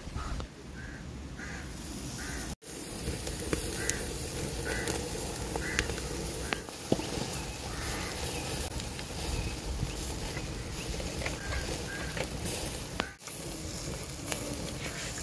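Repeated short bird calls, about two a second at times, over steady background noise with scattered sharp clicks.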